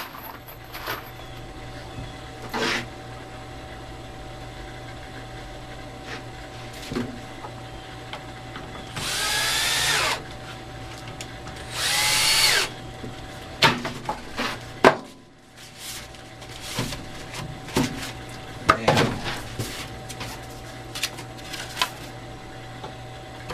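Power drill boring pilot holes in pine, run in two short bursts of about a second each with the pitch rising as it spins up. Scattered clicks and knocks of wood and tools being handled follow.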